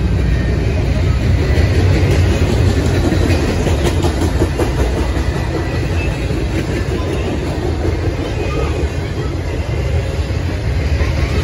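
Intermodal freight cars carrying double-stacked containers and highway trailers rolling past: a loud, steady rumble of steel wheels on rail, with clickety-clack over the rail joints.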